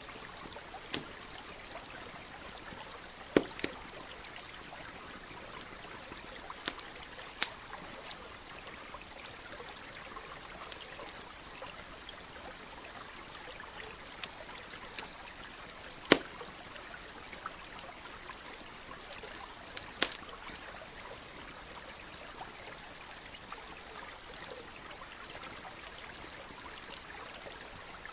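Campfire crackling, with sharp pops every few seconds, the loudest about sixteen seconds in, over the steady trickling rush of a nearby stream.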